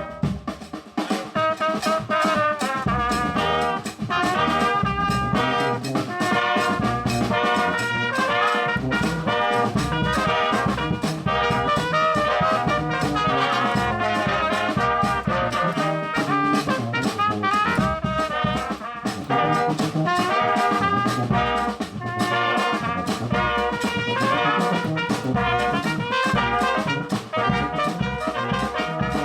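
A band playing a brass-led tune, with trumpet and trombone carrying the melody over a steady drum beat.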